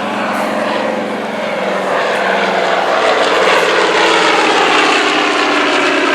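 Grumman TBM Avenger in flight: its Wright R-2600 fourteen-cylinder radial engine and propeller running steadily, the drone growing louder over the first few seconds and then holding.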